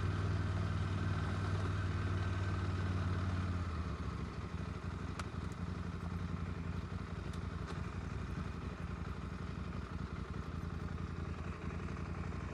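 Motorcycle engine running steadily under way, then easing off about four seconds in and carrying on at a lower level.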